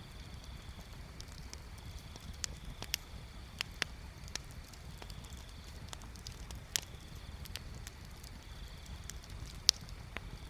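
Wood bonfire crackling: sharp pops come at irregular moments, a few each second, over a low steady rumble. The loudest pop falls near the end.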